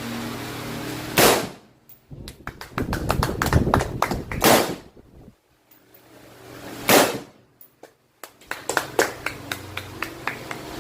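Three loud single gunshots a few seconds apart, each with a short ringing tail, with runs of smaller sharp clicks and taps between and after them.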